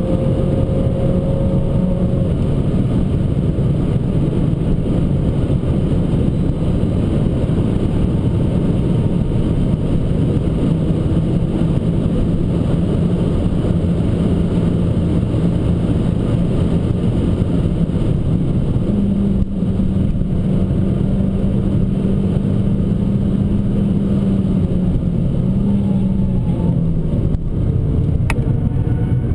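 Abarth 595 Competizione's turbocharged 1.4-litre four-cylinder engine running hard under load at speed, over a steady rush of tyre and road noise. The engine note holds steady, rises a step about two-thirds of the way through, then drops back, with a brief dip near the end.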